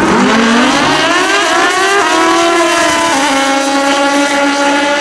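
Drag racing motorcycle engine under full throttle, its pitch climbing steeply. It drops back twice, at about two and three seconds in, as the bike shifts up through the gears.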